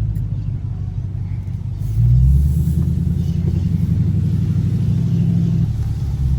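Dodge Scat Pack's 6.4-litre HEMI V8 exhaust rumbling while driving. The engine note swells about two seconds in, holds steady, then eases back near the end.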